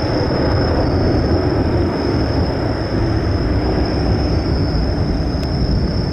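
Jet airliner's engines after takeoff, a steady, loud rumbling roar as it climbs away.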